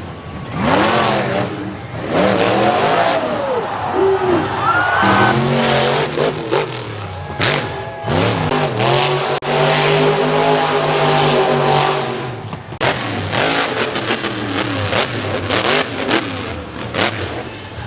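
Monster truck engines revving hard, the pitch surging up and falling back again and again, with several sharp bangs in the last few seconds.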